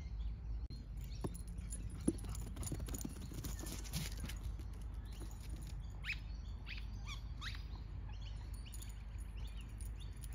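Outdoor ambience: a steady low rumble with a few short, falling bird chirps about six to seven and a half seconds in, and two light knocks about one and two seconds in.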